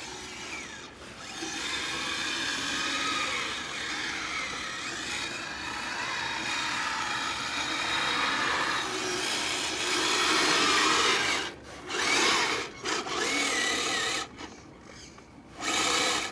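Kyosho Blizzard RC snowcat's electric motor and gearbox whining as it drives its tracks through snow, the pitch rising and falling with the throttle. It stops briefly two or three times near the end.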